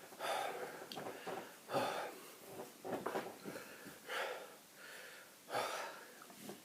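A person's breathy vocal sounds, about five separate bursts of breath spaced a second or so apart.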